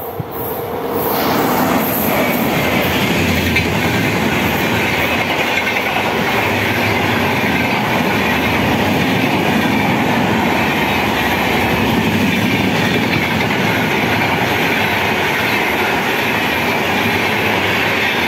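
Electric-hauled passenger train passing close by at high speed. The noise rises over the first two seconds as the locomotive arrives, then holds as a loud, steady rush of the coaches' wheels running over the rails.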